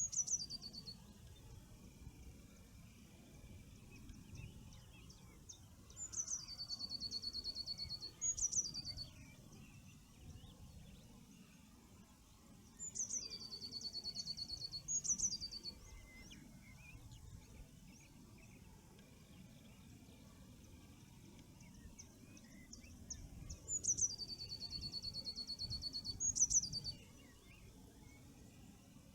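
A songbird singing the same song again and again, about every seven to ten seconds: a quick downward slide into a fast, even trill of repeated high notes for about two seconds, ending in a sharp higher note. The end of one song is heard at the start, then three full songs, over a low steady background rumble.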